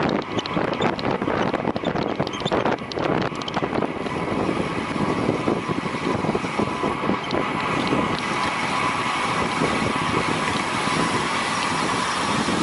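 Vehicle engine running at speed, heard onboard with heavy wind noise on the microphone. A steady engine tone grows clearer about a third of the way in.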